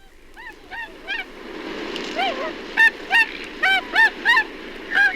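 A flock of Bewick's swans calling in flight: a run of short, yelping honks that grow louder and more frequent, over a rushing noise that builds beneath them.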